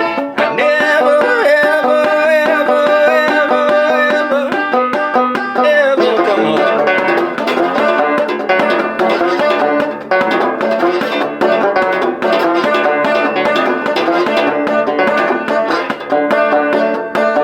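Six-string banjo-guitar (guitjo) played clawhammer style with a slide: a steady stream of plucked, twangy banjo notes with sliding, bending pitches. The playing pattern shifts about six seconds in.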